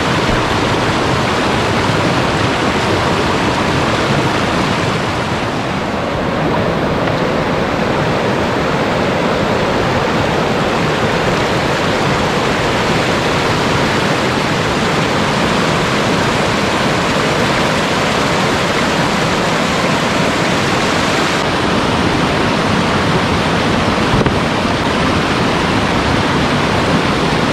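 Mountain valley stream rushing water, a loud steady wash.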